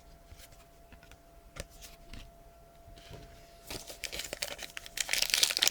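A few faint handling clicks, then from near the middle a trading card pack's foil wrapper being torn open and crinkled, growing louder toward the end.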